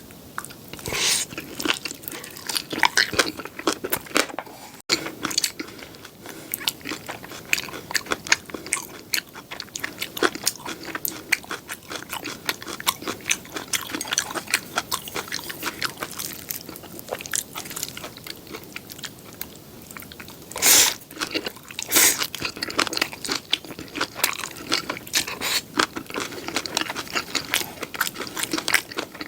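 Close-miked eating of crisp-edged seafood pajeon: crunchy bites and wet chewing with many small crackles, and two louder crunches about two-thirds of the way through.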